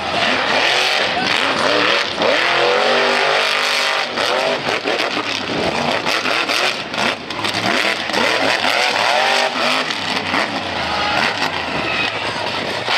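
Monster truck engine revving hard and repeatedly, its pitch climbing and dropping again and again through the run.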